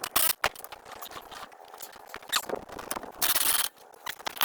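Irregular metallic clicks, scrapes and squeaks of hand-tool work tightening the clamp bolts that hold a tractor rim on its wheel. A louder scraping rush comes about three seconds in.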